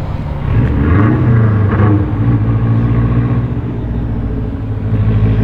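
Car engine running nearby, its pitch rising briefly about half a second in, then settling into a steady low hum.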